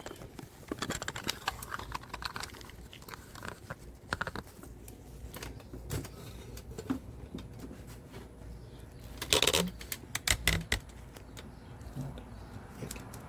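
Scattered light metallic clicks and clinks of hand tools and engine parts being handled, with a louder clatter about nine to ten seconds in.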